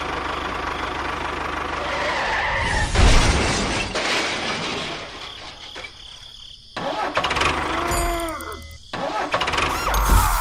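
A vehicle engine runs steadily. About three seconds in, it gives way to a string of abruptly changing, edited sounds, some with rising and falling sliding tones.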